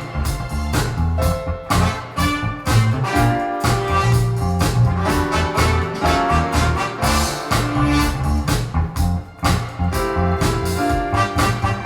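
Swing-style jazz music with brass, played back through Teufel Ultima 40 Mk3 loudspeakers, with a strong bass line and a steady beat.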